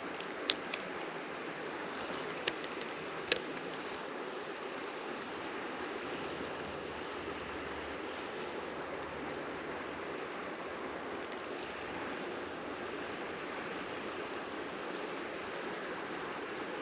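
Steady rush of river water, with three short sharp clicks in the first few seconds.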